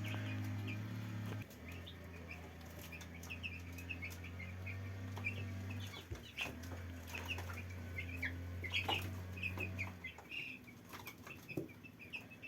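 A brood of young poultry peeping continuously with many short, high chirps. Under it a steady low hum runs, breaking off briefly twice and stopping near the end.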